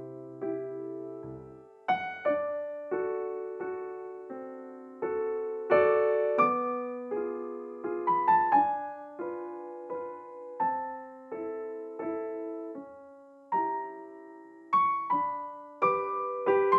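Background music: a gentle melody played on piano or electric piano, single notes struck and left to ring, over a few held low bass notes.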